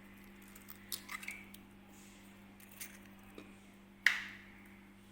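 Light kitchen handling noises: a few soft clicks and taps, then one sharp knock about four seconds in, over a faint steady hum.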